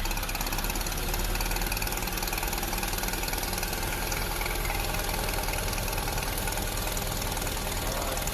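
A vehicle engine running steadily with a loud, rapid rattling clatter.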